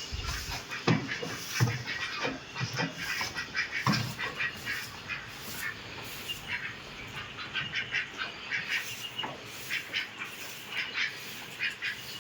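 A busy chatter of many short, bird-like animal calls, several a second, with a few low thumps.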